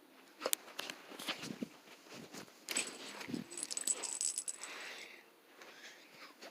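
Kittens playing: scattered clicks, rustling and rattling, busiest about three seconds in, when a thin high ringing sounds for a couple of seconds.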